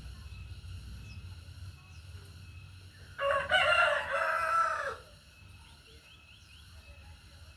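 A rooster crowing once, a call of nearly two seconds that ends on a falling note, over a low background rumble. A few faint, short rising bird chirps follow near the end.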